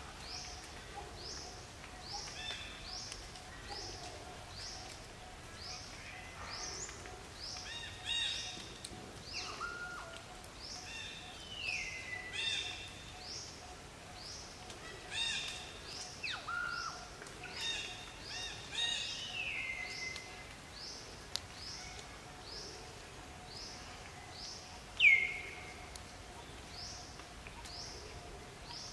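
Several forest birds calling: one repeats a short, high, falling note about twice a second, while others add scattered falling calls and chirps. The loudest is a sharp falling call a little before the end.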